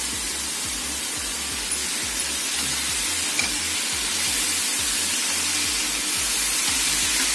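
Grated cabbage and chopped green capsicum sizzling in hot oil in an iron kadai over a high gas flame, stirred with a spatula: a steady frying hiss.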